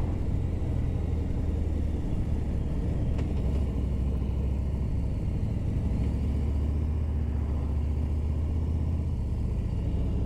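Motorcycle at steady cruising speed: an even engine drone with road and wind noise, unchanging throughout.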